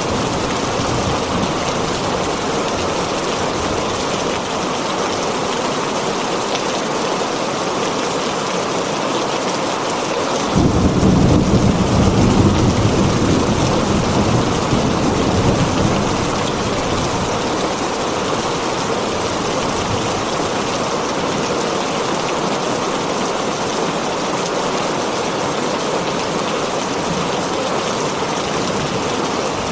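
Heavy rain drumming steadily on a tin roof. About ten seconds in, a deep rumble of thunder breaks in suddenly and fades away over about five seconds.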